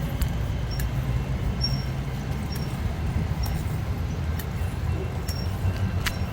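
Steady low rumble of wind and road noise while riding, with faint short high squeaks and light clicks scattered through it.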